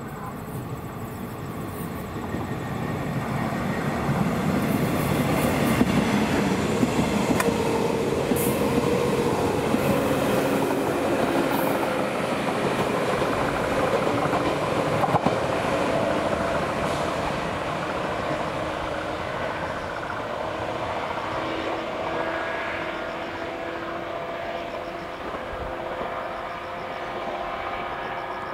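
A JNR 381 series electric train with a KuMoYa 145 electric car coupled behind passes at speed. It grows louder as it approaches, holds a steady whine with a few sharp clicks as it goes by, then fades as it runs away.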